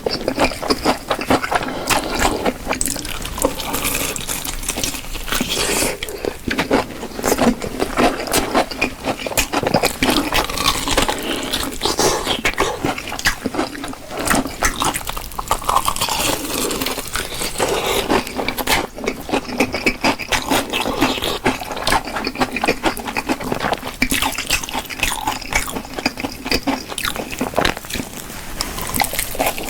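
Close-miked eating of crispy fried chicken: continuous irregular crunching, chewing and wet mouth sounds.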